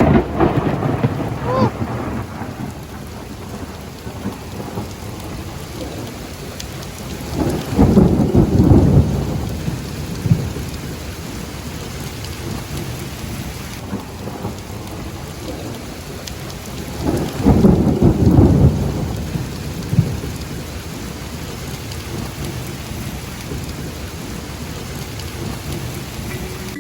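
Thunderstorm: steady rain falling, with two long, loud rumbles of thunder, about eight and seventeen seconds in.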